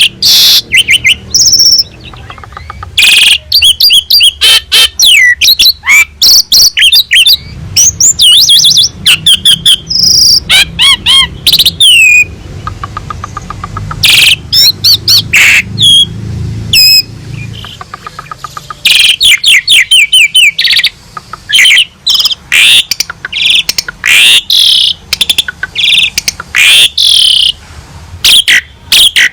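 Asian pied starling (jalak suren) singing nonstop and loud: a varied string of whistles, rising and falling glides and chattering notes in quick phrases, broken by short pauses.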